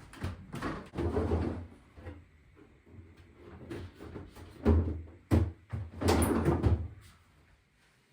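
A series of knocks and bumps from things being handled, in clusters about one second, five seconds and six seconds in.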